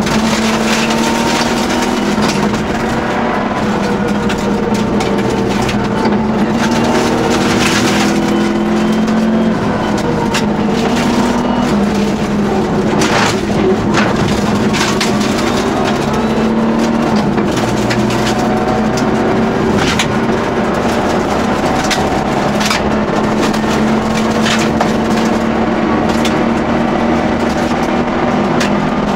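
Subaru Impreza N9 rally car's turbocharged flat-four engine heard from inside the cabin, pulling hard with its pitch repeatedly climbing and dropping back as gears change. Sharp cracks and knocks come through over the engine again and again.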